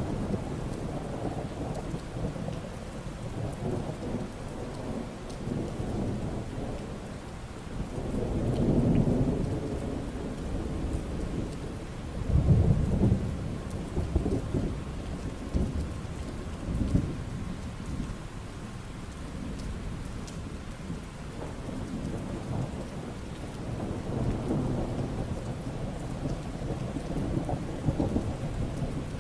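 Steady rain falling, with low rolls of thunder swelling up several times; the loudest rumbles come about eight and twelve seconds in.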